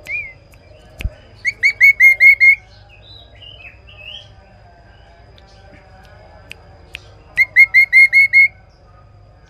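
Kaso-kaso bird singing clear, loud song: two bursts of six or seven quick upslurred whistled notes, about five seconds apart, with a single call at the start and a few softer notes between. A sharp click sounds about a second in.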